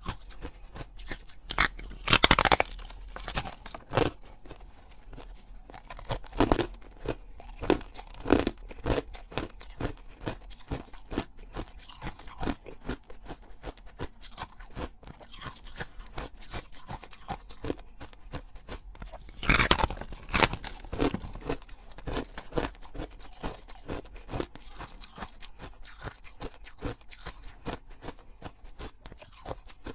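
A person biting into and chewing food, most likely the small oval cakes. Two louder bites come about two seconds in and about twenty seconds in, each followed by a long run of small, irregular chewing clicks.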